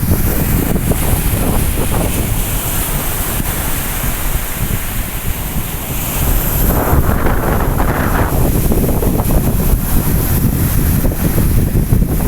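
Waves on the stormy Sea of Azov washing onto the shore, under strong wind buffeting the microphone with a heavy low rumble. The surf swells louder about seven seconds in.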